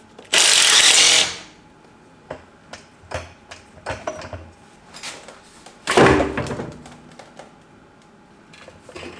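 A power tool runs in a loud burst of about a second near the start. Scattered short clicks and knocks follow, then a louder, fuller clatter about six seconds in.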